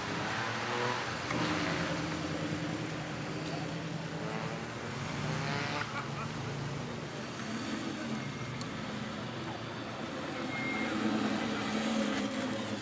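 Car engines running as cars drive slowly past, their pitch rising and falling a little.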